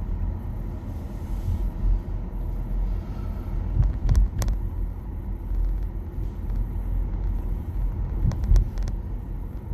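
Road and tyre noise inside a moving 2021 Nissan Leaf electric car: a steady low rumble with no engine note. A few short clicks come in pairs, once near the middle and once near the end.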